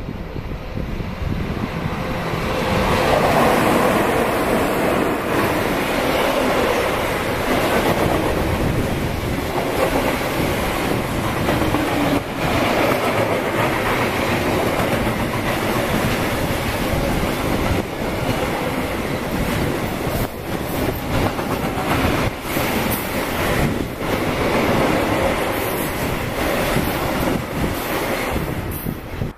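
Long electric freight train of covered hopper wagons passing close by: a steady rumble of wheels on rail, rising over the first few seconds, with repeated clacks as the wheels run over rail joints.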